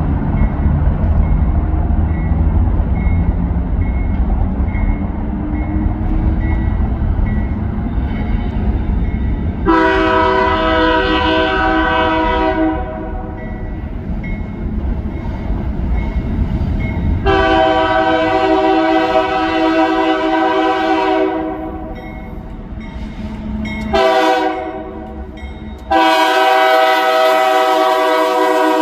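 GE AC4400CW diesel locomotive running with a loud low rumble, then sounding its multi-note air horn in the grade-crossing pattern: long, long, short, long. The last blast runs on past the end.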